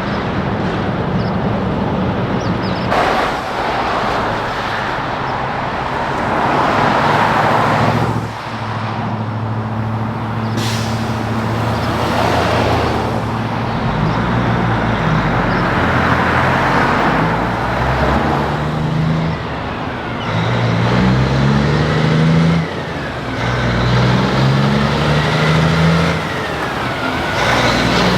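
Heavy diesel trucks passing on a highway, with engine drone and tyre roar swelling and fading several times. In the second half an engine pulls away, its note climbing and dropping back repeatedly as the truck shifts up through the gears.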